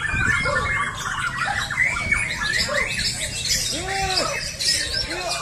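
Many white-rumped shamas singing at once: a dense tangle of overlapping whistles, chirps and trills, with a clear lower arched whistle about four seconds in.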